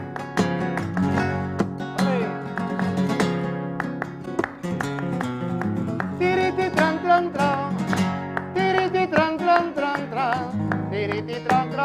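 Flamenco acoustic guitar playing with quick plucked and strummed notes. A singer's voice comes in about halfway through and carries wavering, ornamented lines over the guitar.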